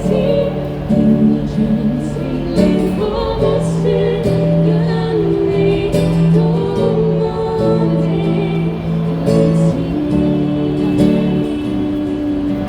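Live street-busking music: a song sung with guitar accompaniment, with long held notes over a steady beat.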